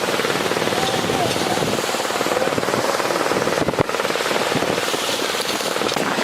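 An engine running steadily with a fast, even chug, under wind noise on the microphone. There is one sharp knock a little before four seconds in.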